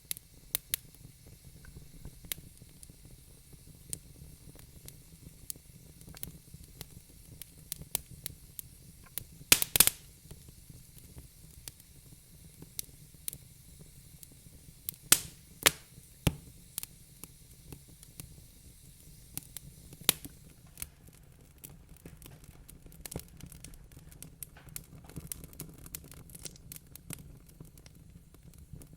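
Wood fire crackling in a fireplace: irregular sharp pops and snaps, with a few louder ones about ten and fifteen seconds in and denser small crackles near the end, over a low steady rumble.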